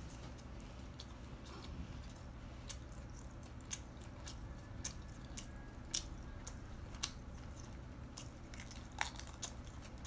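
Eating sounds from a person working through a steamed Boston lobster: scattered sharp clicks and crunches of shell being cracked and picked, with chewing, over a faint steady low hum.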